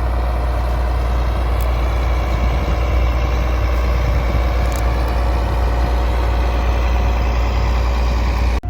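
Large diesel tractor engine running steadily at constant speed, a heavy low rumble with a steady hum over it. It cuts off abruptly near the end.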